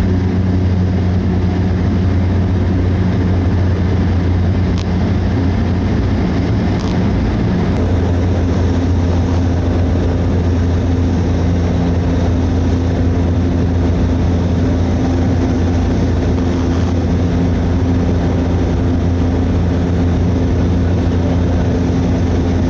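Cessna 208B Caravan's single turboprop engine and propeller droning steadily in cruise, heard inside the cabin as a loud, even low hum with a rushing hiss.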